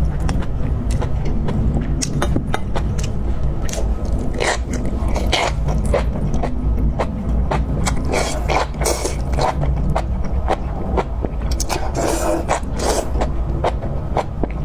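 Close-miked eating of lamb: irregular wet chewing, smacking and crunching clicks, with bursts of louder chewing a few times, over a steady low hum.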